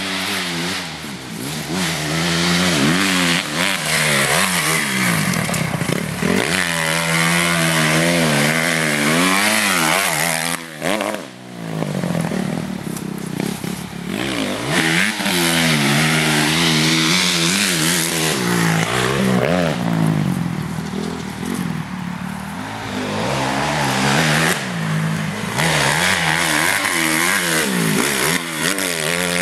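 Honda CRF250R motocross bike's four-stroke single-cylinder engine revving hard and easing off again and again as it is ridden round the track. There is a short throttle chop about eleven seconds in.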